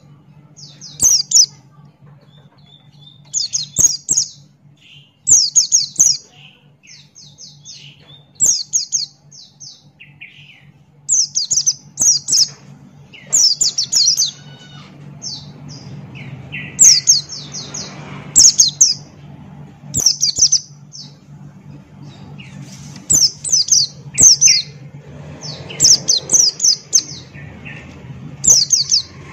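White-eye (pleci buxtoni) singing in short bursts of rapid, high chirps, a burst every second or two, over a steady low hum.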